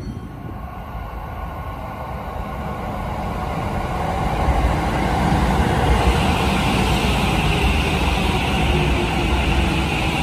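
Shin-Keisei 8800 series electric train moving slowly through the station, a low rumble of wheels on rail growing louder over the first few seconds, with a faint motor whine and a hiss that strengthens about halfway through.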